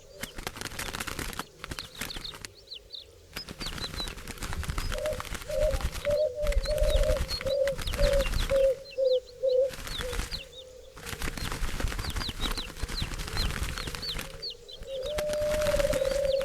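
Doves cooing: a low purring call broken into short repeated notes in the middle and drawn out near the end. Small birds chirp high and fast over it, along with wing flapping, and the background noise cuts in and out abruptly.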